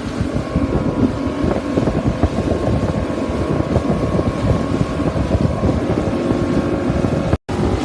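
Boat engine running steadily at sea, with wind buffeting the microphone. The sound drops out for a split second near the end.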